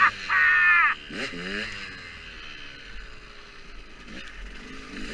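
Motocross dirt bike engine revved hard for about a second, then falling in pitch as the revs drop. It runs on more quietly at lower revs for the rest.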